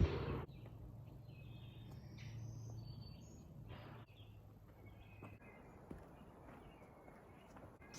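Scattered bird chirps over faint outdoor background noise in woodland, after a louder sound that cuts off about half a second in.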